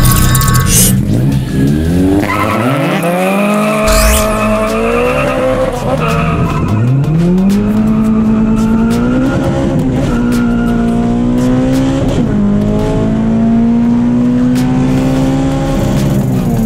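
Honda four-cylinder engine heard from inside the car, revving hard through the gears in a drag run. Its pitch climbs and drops back at each shift, holds high for several seconds, then falls away near the end as the throttle is lifted.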